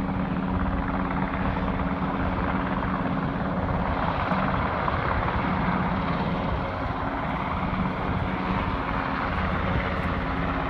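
Coastguard search-and-rescue helicopter flying, its rotors and turbine engines making a steady noise with a low hum.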